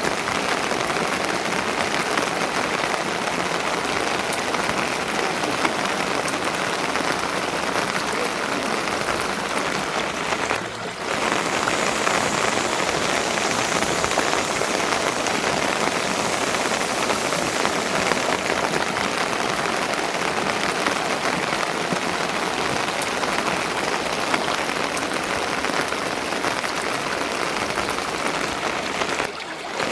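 Steady rain falling, an even, dense patter that dips briefly twice.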